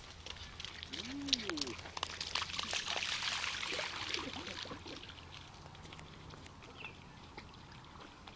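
Water splashing and trickling as a dog moves in shallow water, busiest from about two to four seconds in, with one short rising-and-falling call about a second in.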